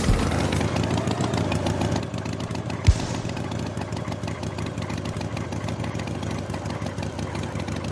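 A small engine running steadily with a rapid, even putter, dropping a little in level about two seconds in, with a single low thump about three seconds in.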